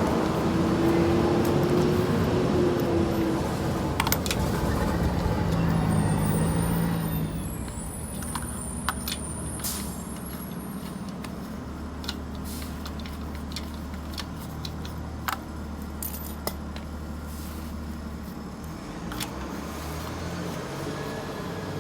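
A car is heard moving for about the first seven seconds, its engine and road noise loud with a tone that rises and then falls. It then settles to a quieter, steady low engine hum, with scattered sharp clicks and clinks of metal.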